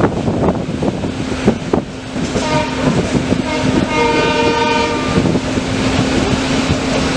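Train running with a steady rumble and wheel knocks. A locomotive horn sounds one long blast from about two seconds in to about five seconds.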